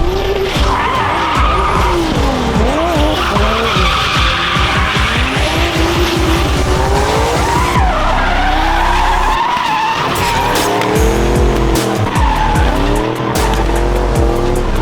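Drift car's engine revving up and down repeatedly, with tyres squealing and skidding as the car slides.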